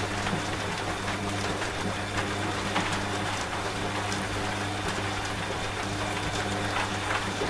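Rain falling steadily with scattered drop ticks, over the steady low hum of a running washing machine.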